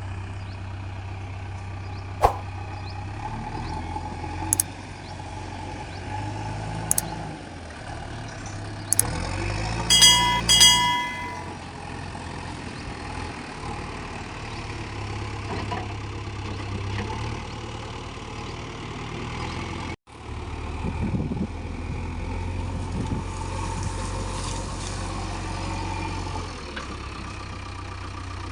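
Diesel engine of a JCB 3DX backhoe loader running and working, its low drone rising and falling with load. Sharp metallic knocks come every two or three seconds, and two short high-pitched tones come about a third of the way in.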